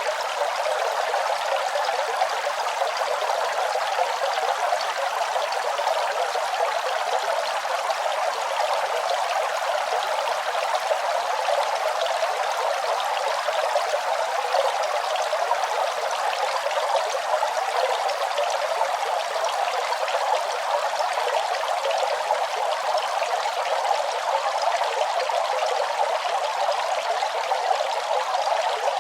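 Running water: a steady splashing flow, with no change or break.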